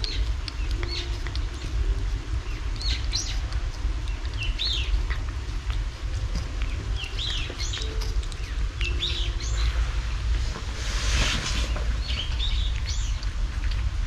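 Small birds chirping in short calls again and again over a steady low rumble, with a brief hiss about eleven seconds in.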